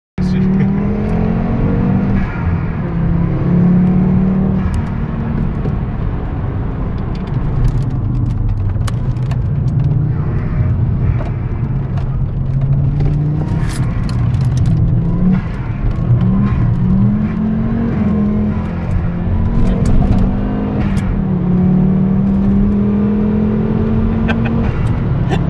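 Volvo V70R's turbocharged 2.3-litre five-cylinder engine with a 19T turbo, driving under load, its pitch rising and falling repeatedly with engine speed as the car accelerates.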